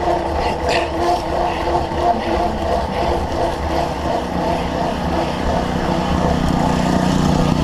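Steady rumble of a cyclocross bike being ridden during a race: wind on the microphone and the tyres running over the course.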